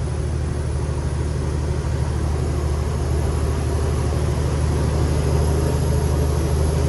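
Cummins X15 diesel engine of a Kenworth T800 truck running steadily, with its cooling fan engaged by the two-speed fan clutch. The fan adds only a very soft sound over the engine, and the overall level rises slowly.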